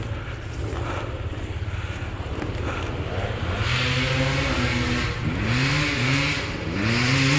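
Off-road enduro motorcycle engine running, then revving up in several short rising pulls from about three seconds in as the bike accelerates.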